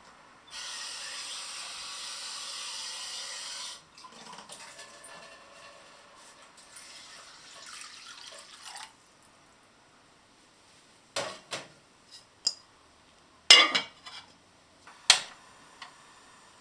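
Water running from a tap for about three seconds, then softer, uneven splashing as things are handled in the water, followed by a few sharp clinks and knocks of dishes or utensils, the loudest two near the end.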